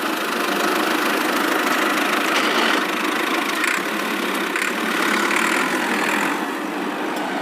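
A vehicle engine running steadily: an even, rough drone with no rise or fall in pitch.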